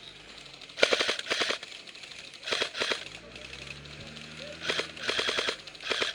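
Airsoft guns firing several short bursts of full-auto fire, each a rapid rattle of shots lasting under a second.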